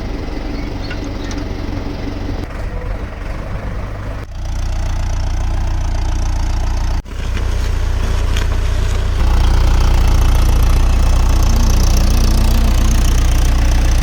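Mahindra Yuvo Tech+ 585 4WD tractor's diesel engine running steadily, growing louder in two steps, about four and nine seconds in, with a brief break about seven seconds in.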